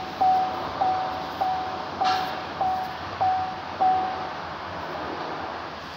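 Electronic beeper repeating a short mid-pitched tone about every 0.6 seconds, seven beeps that each fade quickly, stopping about four seconds in. A steady background hiss runs under it, with a brief rustle about two seconds in.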